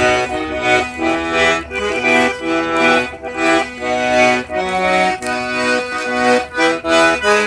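Accordion (sanfona) playing a dance tune, a melody over chords in short rhythmic phrases.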